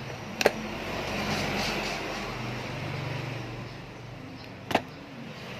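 Two sharp clicks about four seconds apart over a steady low rumble and hiss that swells in the middle.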